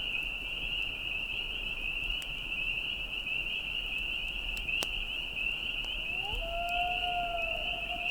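Steady high-pitched chorus of insects trilling, such as crickets or katydids. A gliding synth tone of background music fades in about two seconds before the end.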